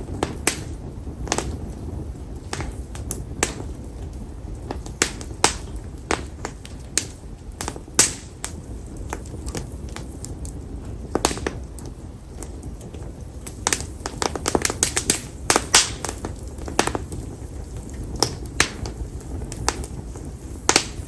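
Konara oak firewood burning in an open campfire, crackling with frequent sharp pops at irregular intervals over a steady low rumble of flame, the pops coming thick and fast for a couple of seconds past the middle.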